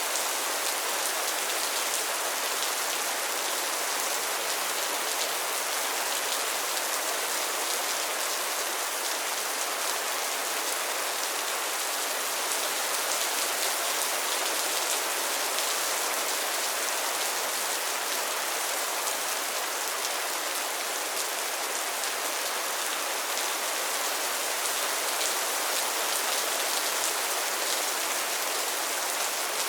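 Steady rain falling on a pond and its lily pads: a dense, even hiss of countless drops pattering on water and leaves.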